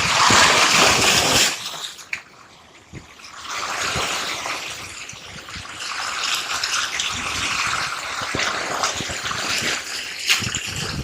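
Seawater surging and washing, loud for about the first second and a half, falling away, then building back into a steady wash.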